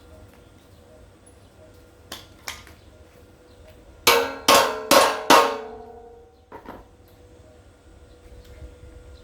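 Metal struck four times in quick succession, each blow loud and leaving a short ringing tone, preceded by two light knocks and followed by two softer ones.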